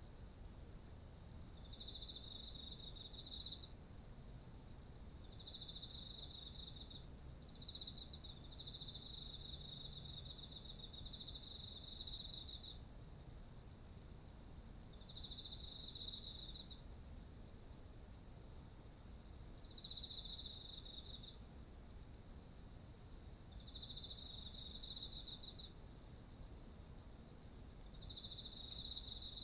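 Chorus of autumn insects: a continuous very high-pitched trill, with two lower pulsed trills layered over it in phrases a second to several seconds long that start and stop again and again.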